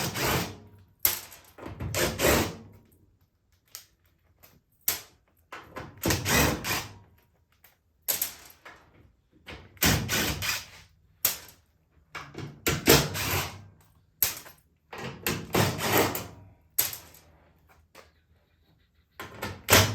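DeWalt power driver backing screws out of a front-load washer's back panel in repeated short bursts, each up to about a second long, with brief pauses between screws.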